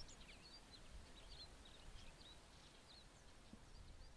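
Faint background of small birds chirping, many short high calls, over a low rumble.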